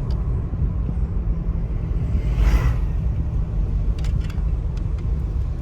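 Steady low rumble of a car in motion, with a brief rising hiss about two and a half seconds in.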